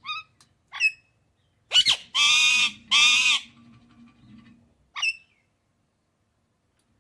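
Parrot calling: a few short, sharp calls, then two long, loud calls in quick succession about two and three seconds in, and one more short call about five seconds in.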